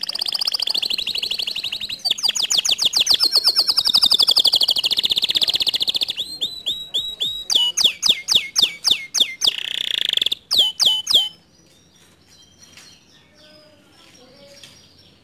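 Canary singing a loud, fast song of rapid trills and rolls, then a run of quick repeated downward-sweeping notes, stopping about eleven seconds in; only faint chirps after that.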